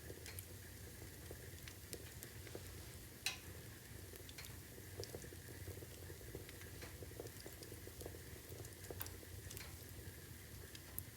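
Wood fire crackling: a low steady rumble of burning logs with scattered sharp snaps and pops, the loudest single pop about three seconds in.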